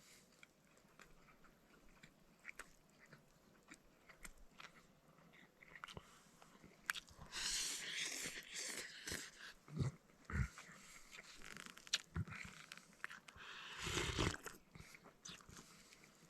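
A person eating close to the microphone: chewing and biting with small scattered clicks. There are two longer rustling stretches, one about seven seconds in and one near the end.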